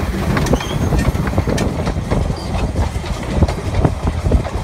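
Narrow-gauge train running along the track: a steady rumble with many short clicks and rattles from the wheels and carriages.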